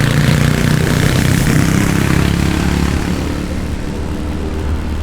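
Motorbike engine running steadily while riding, with wind noise on the microphone, strongest in the first couple of seconds.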